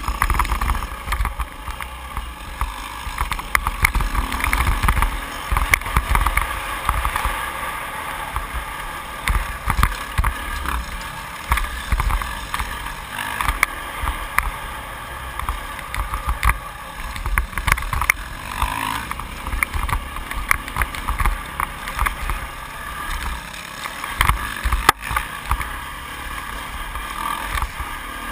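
2008 Yamaha YZ450F's four-stroke single-cylinder engine running through a motocross lap, picked up by a GoPro's microphone, with gusts of wind rumble and frequent short knocks from the bike over the bumps.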